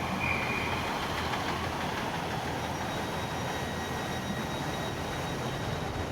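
Diesel multiple unit running steadily with a low engine hum. A faint high whine joins in about halfway through.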